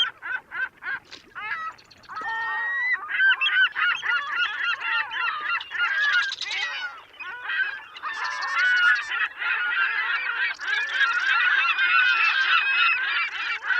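A flock of geese honking, many calls overlapping. The honks come one by one at first, then pile into a dense, continuous clamour from about two seconds in.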